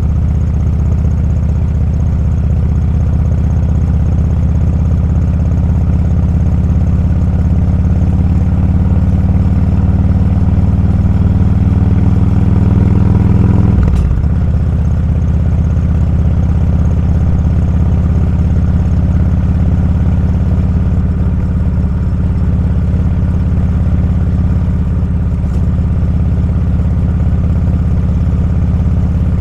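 Motorcycle engine running under way, its pitch creeping up over several seconds, then dropping abruptly about halfway through before running steady again.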